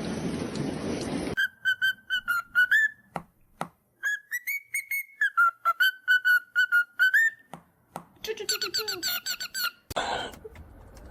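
Whistling in quick runs of short, high notes, some sliding upward, with a short break in the middle. A steady hiss stops abruptly just before it begins.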